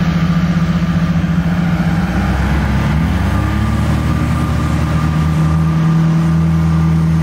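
Off-road Jeep engines running under load while climbing sand: a steady engine note throughout, with a second engine note climbing in pitch about three seconds in as one revs up.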